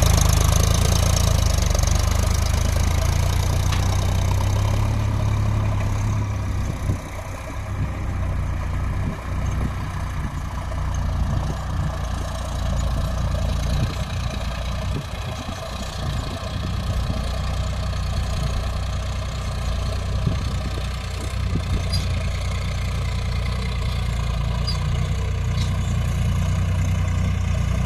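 Tractor diesel engine running steadily with a deep, continuous hum; the sound drops a little about seven seconds in and then holds steady.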